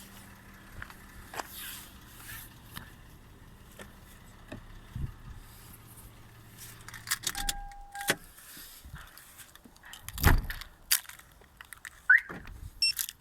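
Toyota 1G-FE Beams straight-six engine idling quietly with scattered ticks, the engine whose knock is in question; the hum stops about seven seconds in. A short steady beep follows, then clatter and a loud thump about ten seconds in and another sharp knock near the end.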